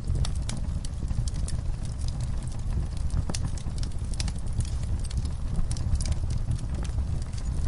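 Wood fire burning in a fireplace: irregular sharp crackles and snaps over a steady low rumble of the flames.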